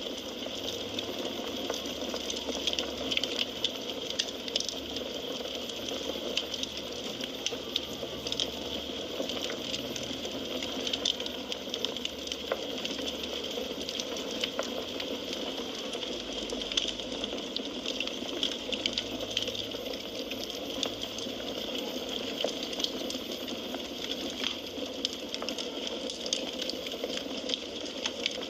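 Firewood burning: a steady hiss dotted with frequent small, sharp crackles and pops.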